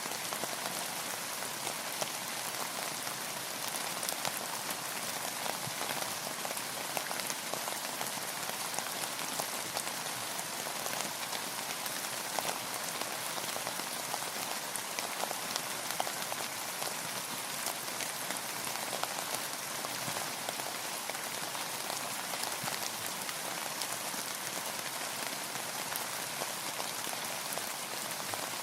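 Steady rain falling, a dense hiss of many drops pattering on a surface.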